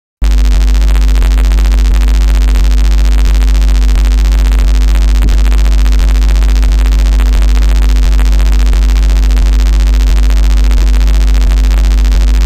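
Loud, continuous electrical hum and buzz coming out of a faulty RODE XCM50 USB microphone plugged into a computer. It starts abruptly just after the beginning, with faint ticks about twice a second. The fault is a damaged USB-C socket with a loose connection; the owner wonders whether it is a switch-mode power supply or something feeding back.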